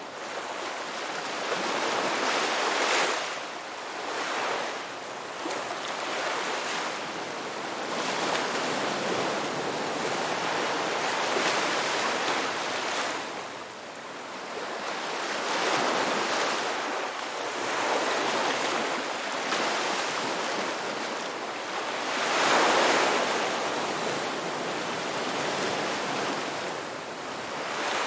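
Ocean waves washing onto a rocky beach: a continuous rushing surf that swells and ebbs every few seconds, with the biggest surge a little past three-quarters of the way through.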